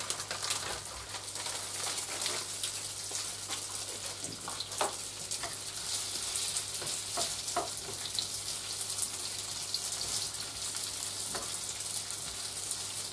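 Schupfnudeln frying in hot oil in a nonstick pan: a steady sizzle with fine crackling. A few light knocks as a wooden spatula stirs them in the pan.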